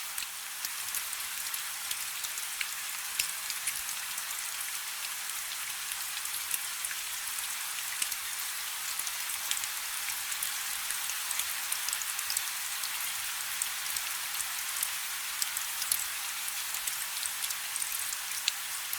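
Steady light rain: a constant hiss with many small, sharp drop ticks scattered through it.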